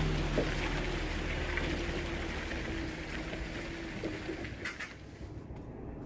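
Iveco truck's engine running while driving, a steady low hum that eases off and grows quieter over the last few seconds.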